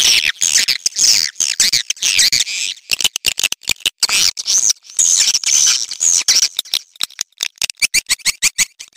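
Swiftlet calls: dense, high twittering and chattering chirps, broken by rapid trains of dry clicks about three seconds in and again near the end. It is the swiftlet mating-call sound used as a call to draw swiftlets.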